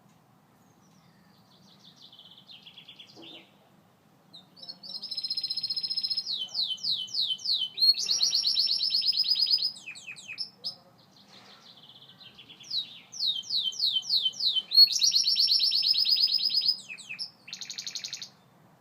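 Gloster canary singing in long phrases of rapid trills and fast repeated sweeping notes. The song starts softly, turns loud about four seconds in, drops to a soft lull about halfway through, then comes back loud before stopping near the end.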